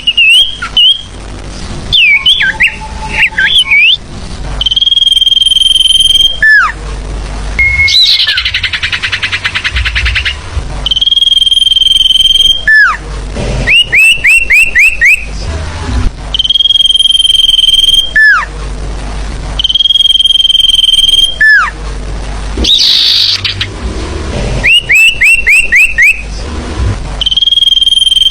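Bird lure recording of a forest songbird called sirtu, played loud: long steady high whistles, each ending in a falling slur, alternating with runs of about five quick rising notes and an occasional buzzy trill, repeating over and over.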